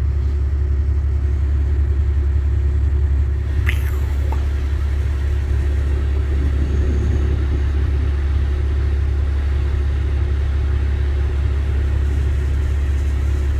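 Vehicle engine running with a steady low drone, and one brief click about four seconds in.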